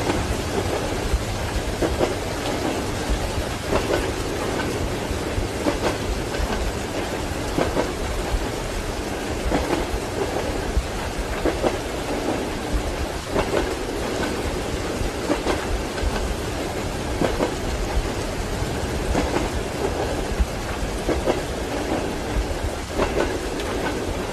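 Steady rain over the regular clickety-clack of train wheels running over rail joints, a pair of clacks about every two seconds.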